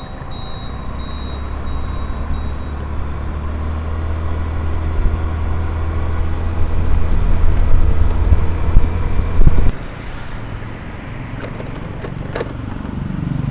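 Car driving in city traffic: steady engine and road rumble that grows louder over several seconds as it picks up speed, then drops suddenly just before the last few seconds.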